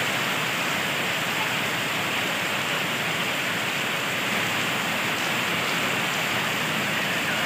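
Heavy rain pouring steadily onto paving and wet ground, an even hiss.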